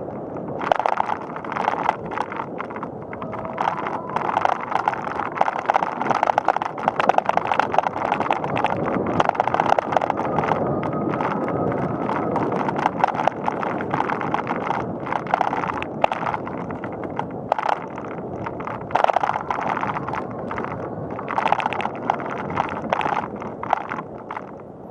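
Bicycle rolling along a paved path: steady tyre and ride noise with a constant rattle of small clicks and knocks from the bike and mount.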